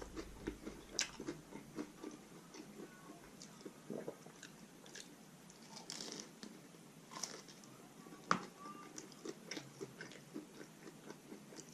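Close-up chewing and biting of a crunchy whole wheat taco shell with chicken and bean filling: irregular crackles and moist mouth clicks, with one sharper crunch about eight seconds in.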